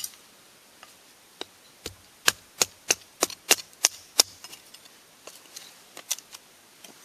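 A knife splitting a piece of firewood into thin kindling sticks: a run of sharp wooden cracks and knocks, about three a second, that thin out to faint ticks after about four seconds.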